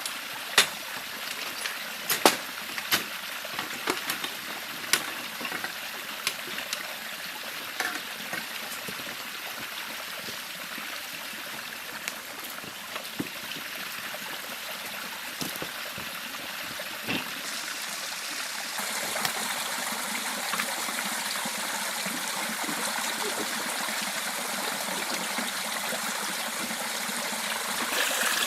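A river flowing, a steady rush of water, with scattered sharp clicks and knocks mostly in the first several seconds. The water grows louder and brighter about two-thirds of the way through.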